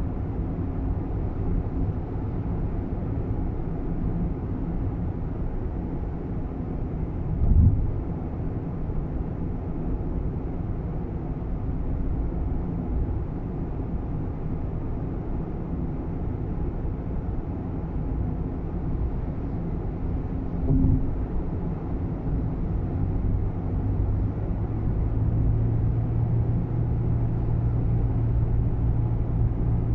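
Steady low cabin noise of a Nissan Roox kei car on the move, engine and road rumble, with two short thumps about a quarter and two-thirds of the way through. No distinct rattle stands out.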